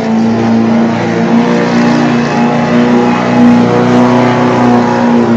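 Pulling truck's engine running loud at high, nearly steady revs under load, dragging the weight sled.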